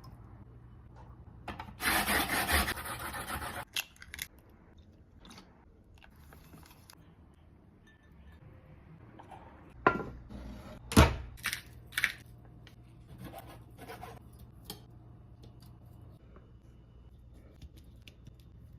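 Kitchen food-preparation sounds: a rough rasping scrape for about two seconds near the start, then a few sharp knocks and clinks of utensils about ten to twelve seconds in.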